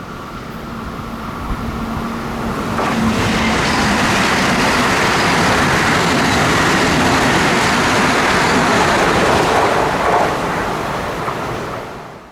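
A train passing close by at speed: a rushing roar of wheels on rail builds over a couple of seconds, holds loud for several seconds, then fades and cuts off abruptly.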